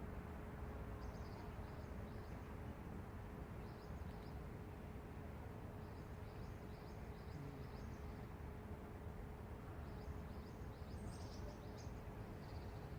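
Faint steady low rumble of city traffic, with small birds chirping in short quick bursts here and there, the loudest flurry about eleven seconds in. A thin steady hum sits under it all.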